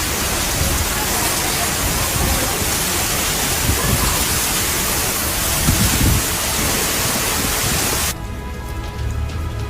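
Heavy storm noise: a dense, steady hiss of driving rain and wind. About eight seconds in it cuts off abruptly to something quieter, with a few steady tones over a low hum.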